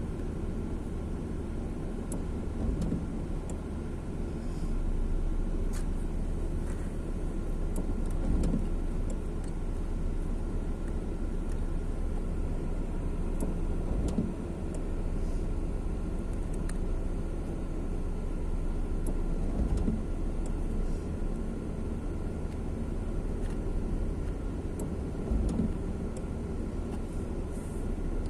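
Steady low rumble of heavy rain with road traffic running through it, and a few brief low thumps scattered irregularly.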